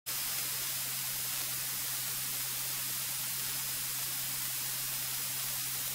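Steady hiss with a low, even hum underneath, typical of a cockpit audio feed from the aircraft's intercom and radio.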